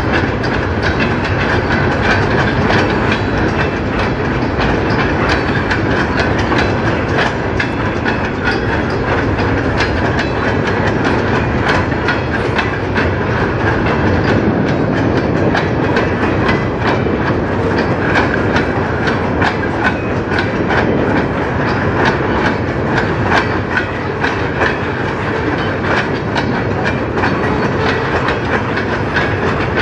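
Freight train of covered hopper and tank cars rolling steadily past, with the steel wheels clicking over the rail joints in a continuous clickety-clack.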